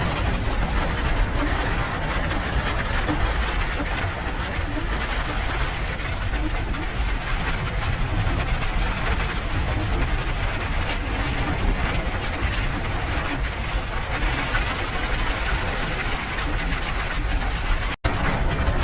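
Steady rain: a dense, even hiss with a deep rumble underneath. The sound cuts out for an instant near the end.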